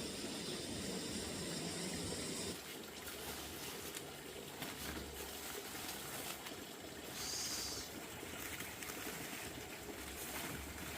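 Water trickling, with the sound changing abruptly about two and a half seconds in.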